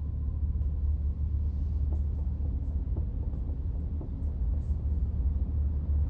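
A deep, steady low rumble of film sound design, with a faint thin tone above it and a few faint ticks.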